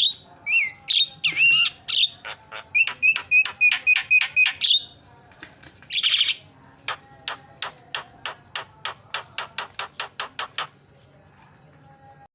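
Javan myna (jalak kebo) calling in a busy chatter: a run of quick whistled notes, a harsh screech about six seconds in, then a fast series of sharp clicking notes that stops near the end.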